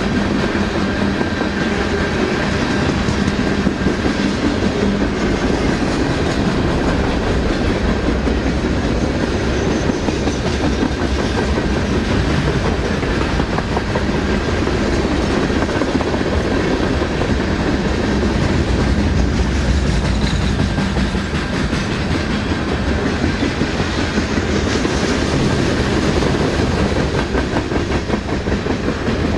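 Mixed freight train's boxcars and a lumber-loaded flatcar rolling past: a steady rumble of steel wheels on rail, with clickety-clack over the rail joints.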